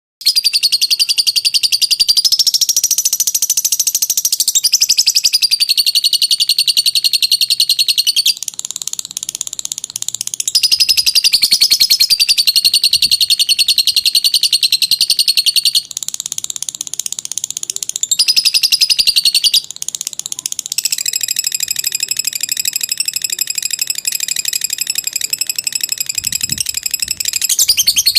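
Lovebird singing a long 'ngekek' chatter: a fast, high-pitched trill of rapidly repeated notes in unbroken phrases several seconds long, shifting in pitch and loudness at each short break.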